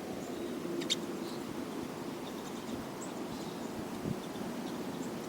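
Pine siskins giving a few faint, short high chirps, with one sharper click about a second in, over a steady low hum.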